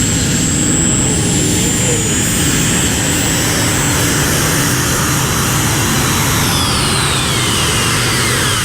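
Competition pulling tractor running flat out under full load as it drags the sled down the track: a loud, unbroken engine noise. From about six seconds in, a high whine falls steadily in pitch.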